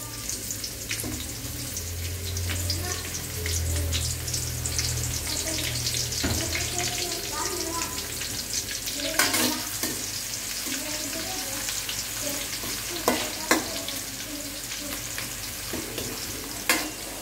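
Sliced shallots sizzling and crackling as they fry in hot oil in a wok. A few sharp clacks of a spatula against the wok come in the second half.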